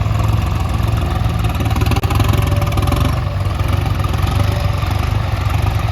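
Swaraj 855 tractor's diesel engine running steadily with a rapid, even firing beat, broken by a momentary drop about two seconds in.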